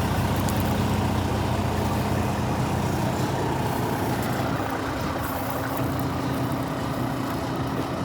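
Diesel engine of a 2020 Volvo VNL 860 truck tractor idling steadily, its low hum shifting slightly about halfway through.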